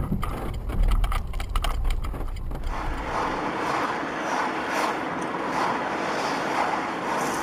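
A car driving: low rumble inside the cabin with a series of knocks and clicks for the first few seconds. It then changes abruptly to a steady hiss of road and wind noise that swells and fades about once a second.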